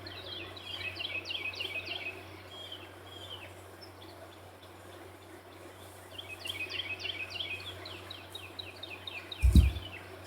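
A songbird singing two quick runs of rapid falling chirps, one near the start and one in the second half. Near the end comes a single low thump.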